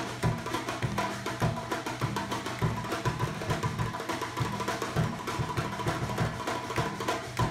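Live drum ensemble playing a fast, steady rhythm: two large upright bass drums struck with mallets, a shoulder-slung drum and a snare drum.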